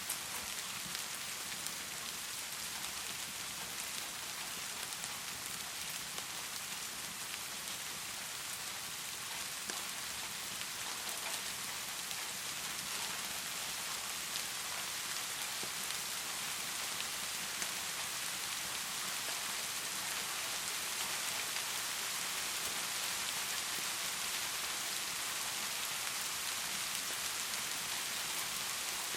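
Heavy rain pouring steadily, a dense hiss of falling water with fine ticks of individual drops, growing slightly louder toward the end.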